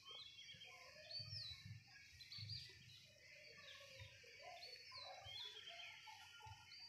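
Near silence with faint, repeated bird chirps in the background.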